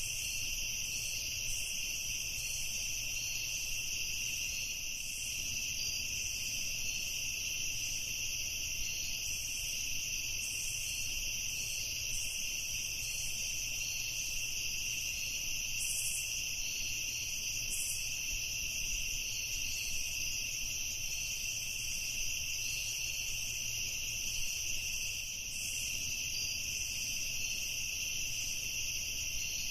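Steady chorus of crickets trilling, a high, unbroken sound with no pauses.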